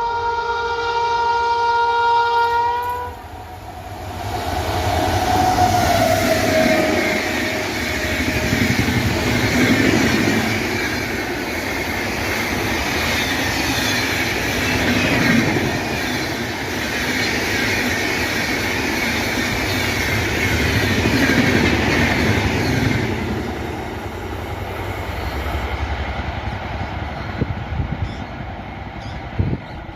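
Indian Railways Rajdhani Express passing at speed: the locomotive horn sounds a steady blast for about three seconds and cuts off, then comes the loud rush of the train going by, with the wheels rumbling over the rail joints in a slow repeating swell, until it dies down about three quarters of the way through.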